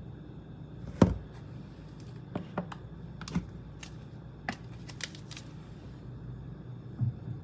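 A series of irregular sharp clicks and taps from kitchen items being handled while chicken is seasoned, the loudest about a second in and another near the end.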